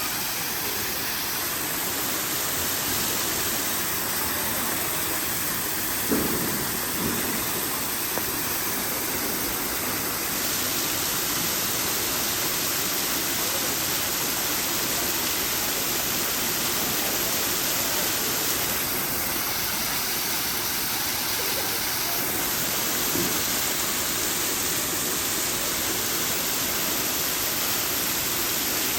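Waterfall rushing: a steady, even hiss of falling water, with a brief knock about six seconds in.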